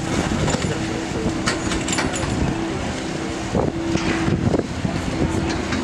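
A motor running with a steady hum that fades in and out, over wind noise on the microphone, with a few sharp clicks.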